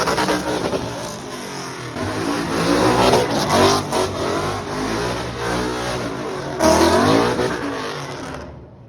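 Car engine revving hard, the pitch climbing and falling over and over, with loud surges about three seconds in and again near seven seconds. It cuts off abruptly near the end.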